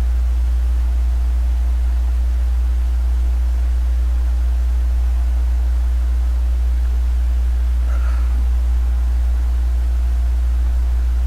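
A steady low hum under a faint hiss, unchanging throughout, with one brief faint chirp about eight seconds in.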